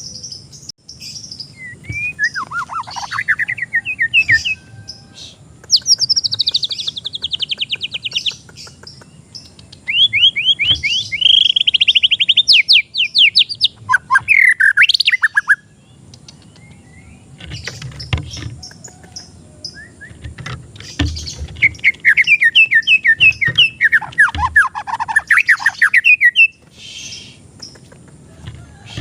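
White-rumped shama (murai batu) singing in several loud phrases of rapid trills and falling notes, with pauses between them.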